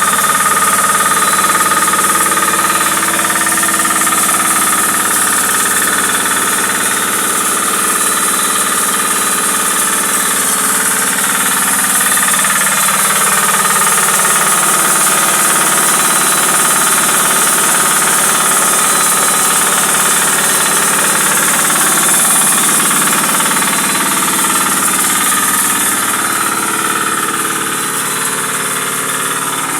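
Grinding and crushing machine for making fish-feed meal running steadily, a loud, even mechanical din with a strong high hiss.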